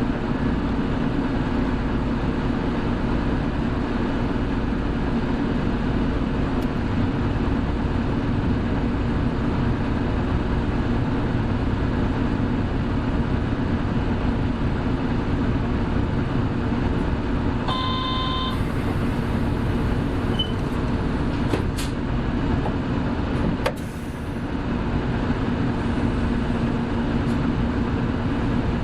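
Inside a Hino Blue Ribbon City hybrid (BJG-HU8JLFP) city bus under way: a steady engine and drivetrain drone with road noise. About two-thirds of the way through there is a short electronic beep followed by a brief hiss, and the drone dips for a moment a few seconds later.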